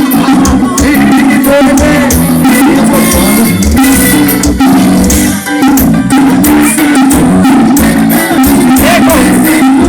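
Loud music with drums, guitar and bass played through a paredão speaker-wall sound system, running steadily.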